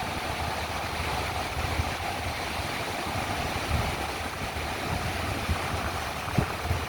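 Wind buffeting the microphone in gusty rumbles, over a steady hiss of ocean surf breaking on the beach.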